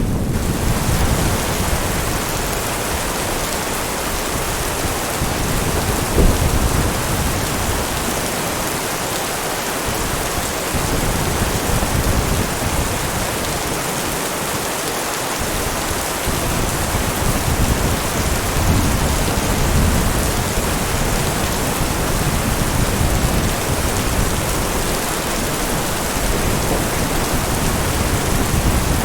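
Heavy rain falling steadily, with thunder rumbling low and swelling several times, and one sharper clap about six seconds in.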